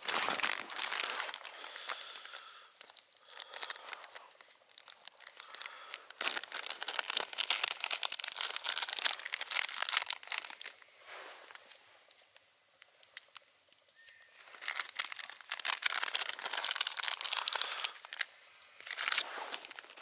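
Crinkling and rustling handling noise in irregular bursts, with quieter stretches in between.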